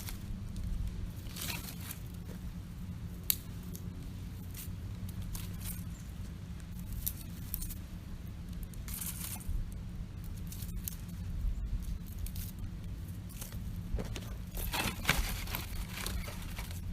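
Wood campfire burning, with scattered crackles and a sharp pop about three seconds in, and short bursts of crackling and rustling near the middle and near the end, over a steady low rumble.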